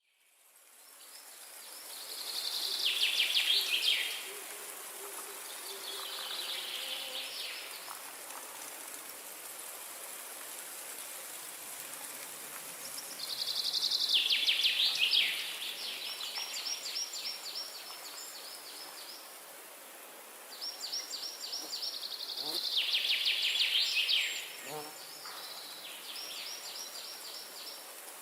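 A songbird sings about six phrases of rapid repeated notes, several ending in a quick drop in pitch, over a steady high hiss of forest ambience.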